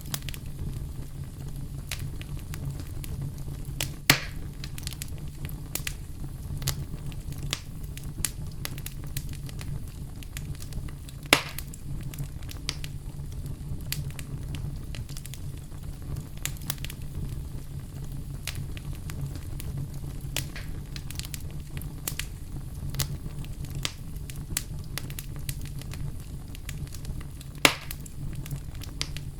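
Campfire burning: dense, constant crackling of burning wood over a steady low rumble, with three sharp, louder pops that stand out, about 4, 11 and 28 seconds in.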